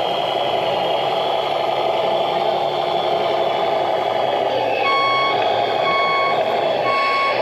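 A radio-controlled model truck's reversing beeper sounding three times, about a second apart, starting about five seconds in, over a steady running noise from the model vehicles.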